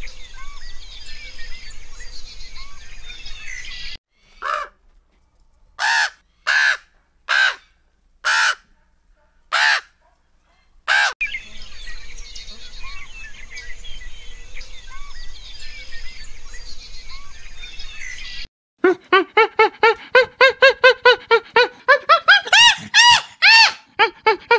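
Background birdsong of many small chirps. About four seconds in, six loud, separate bird calls come roughly a second apart. Near the end, a chimpanzee gives a fast run of pant-hoot calls that speed up and rise in pitch.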